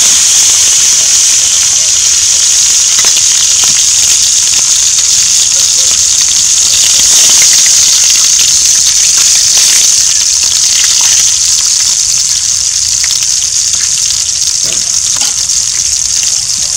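Quail pieces frying in hot cooking oil in a pan on a portable butane stove: a loud, steady sizzle with scattered small pops, easing slightly toward the end.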